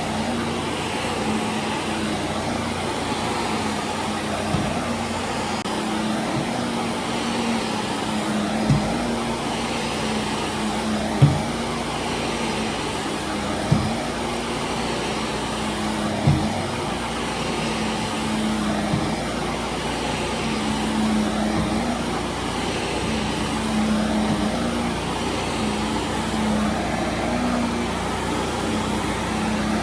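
Vacuum cleaner running steadily over carpet, with a low thump every two to three seconds for a stretch in the middle.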